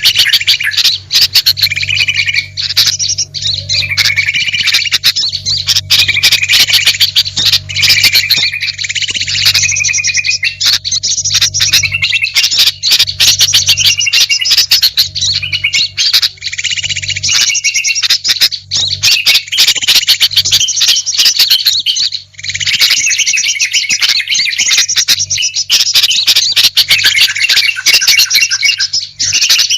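Bird-lure recording of mixed small songbird calls, with bulbul-type chatter among them, played continuously: dense, loud chirping and chattering with many sharp clicks and a steady low hum underneath.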